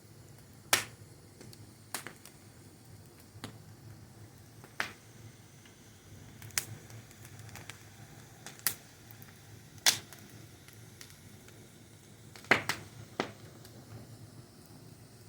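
Wood fire crackling: sharp, irregular pops and snaps every second or two over a faint steady hiss, the loudest pops about a second in, near ten seconds and near twelve and a half seconds.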